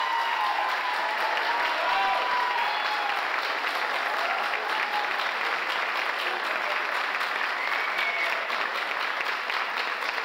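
Audience applauding steadily, a dense clapping that keeps going.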